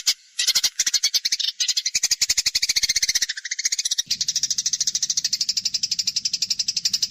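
Eurasian tree sparrows giving their agitated fighting chatter: a rapid, loud run of harsh chirps, about a dozen a second, broken by short pauses near the start and about three seconds in.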